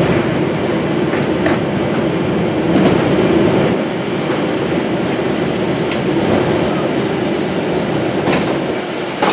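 Cabin noise inside a moving Airbus Express bus: steady engine and road noise with a few sharp clicks and rattles, the sharpest about eight seconds in.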